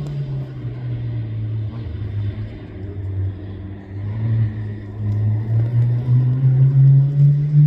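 Rally car engine: its note drops early on as the car comes off the throttle, runs low and steady for a few seconds, then climbs and gets louder as it accelerates again in the second half.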